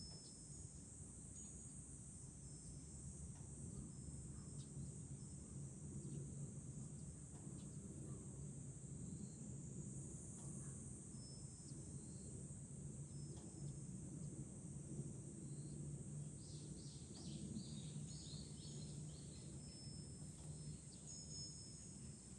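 Steady high-pitched chorus of cicadas, with a low rumble beneath. Thin, high ringing tones of a wind chime come and go, and a short run of falling chirps sounds about three-quarters of the way through.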